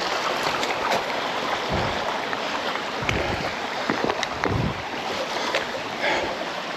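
Steady rush of falling water from a creek running high after rain, with a few dull low thumps.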